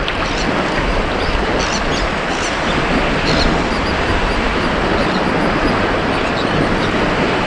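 Ocean surf washing onto a beach: a steady, unbroken rush of waves with no distinct single crash.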